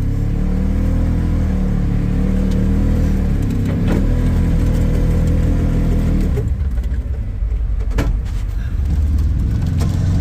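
Side-by-side utility vehicle's engine running under load as it pushes snow with a front plow; the engine note shifts about six seconds in. There are a couple of sharp knocks, about four and eight seconds in.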